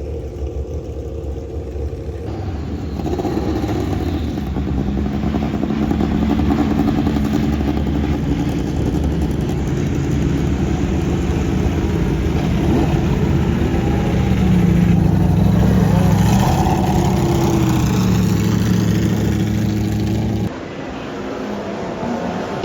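Historic race car engines running hard at speed, their pitch rising and falling with the revs. The sound changes abruptly twice, about two seconds in and near the end.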